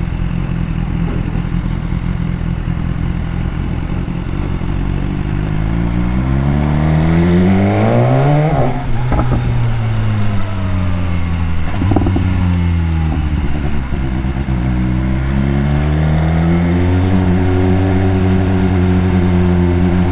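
BMW S1000R's inline-four engine running under way. It holds steady at first, then revs up, drops back about halfway through, and climbs again near the end before settling.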